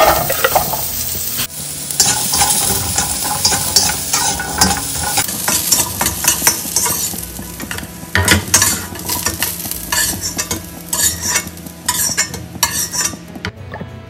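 Diced carrots hit hot oil in a wok and sizzle while a metal spatula stirs them, scraping and clicking against the pan. The sizzling and scraping stop abruptly near the end.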